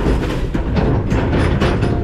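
McNeilus ZR garbage truck running with a heavy low rumble, with irregular clanks and knocks from the hopper.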